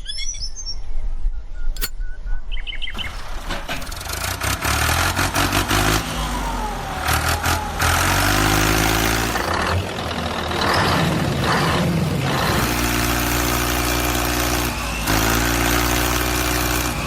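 Engine starting up about three seconds in, then running and revving, its pitch stepping up and down several times.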